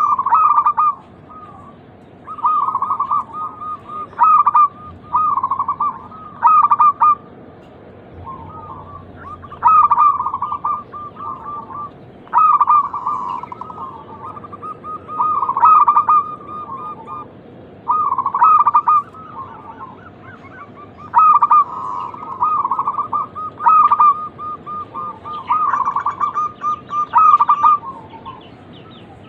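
Zebra doves (perkutut) cooing: short rolling phrases of coos, one every couple of seconds.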